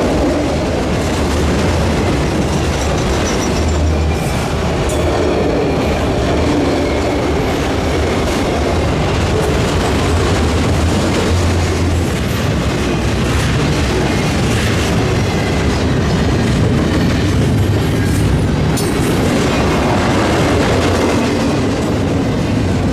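Cars of a passing freight train rolling by: a steady rumble of steel wheels on rail, with some clacking and faint wheel squeal.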